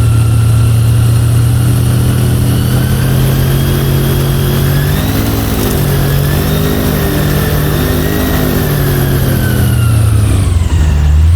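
Airboat's engine and air propeller running at speed, a loud steady drone. Its pitch wavers up and down in the middle and falls near the end as the throttle eases off.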